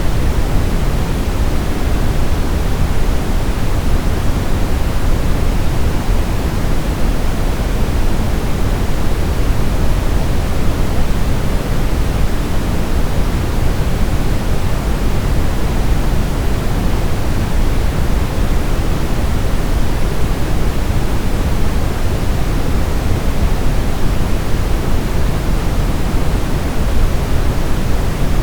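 Steady brown noise: an even, deep hiss heaviest in the low end, with no change or events.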